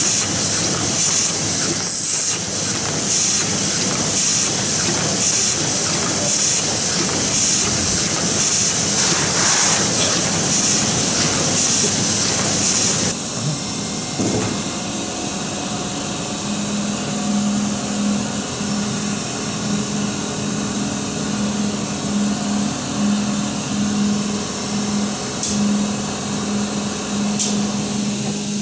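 Print-shop machinery running: a loud steady hiss with a fast regular beat, which changes abruptly about halfway through to a quieter, steadier hum with a pulsing low tone.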